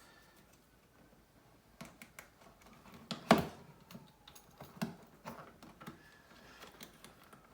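Scattered small clicks and taps from handling a phone and small repair tools on a desk, with one sharper click about three seconds in.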